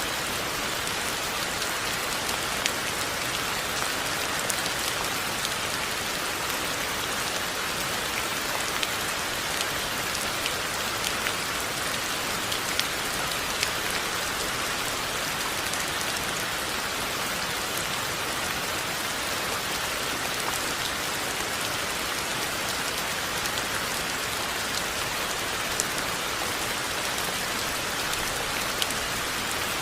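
Steady rain falling on a surface: an even hiss with scattered sharper drops.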